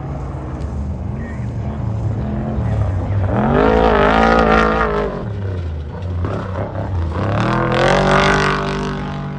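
Off-road desert race truck's engine at full throttle passing by, revving up and falling back between gear changes. Its pitch rises and falls, and it is loudest twice, about four seconds in and again about eight seconds in.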